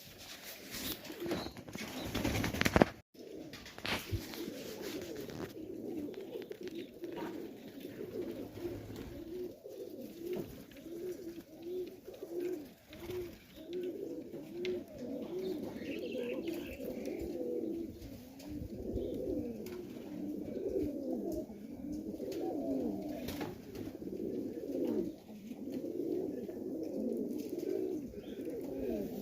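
Domestic highflyer pigeons cooing, many low, rising-and-falling coos overlapping one after another. It opens with about three seconds of loud rushing noise that cuts off abruptly.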